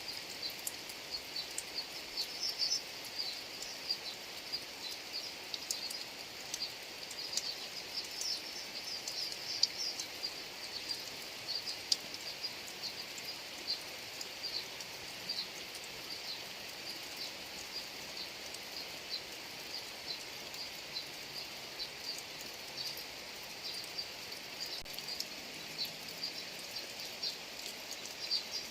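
Rain falling over a rice field: a steady hiss with many short high ticks scattered through it.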